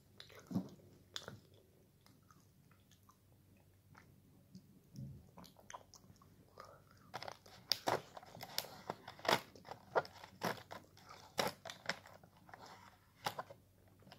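A person chewing a Belgian chocolate seashell: a few scattered mouth clicks at first, then quick clicks coming several a second from about halfway through.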